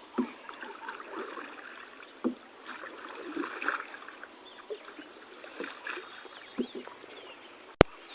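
Small boat being paddled: irregular water splashes and a few soft knocks, with one sharp click near the end.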